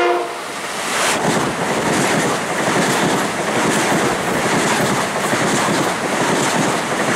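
A train horn chord cuts off just after the start. Then a Metro-North electric commuter train runs past close by, its wheels clattering over the rail joints under a steady loud rush of rolling noise.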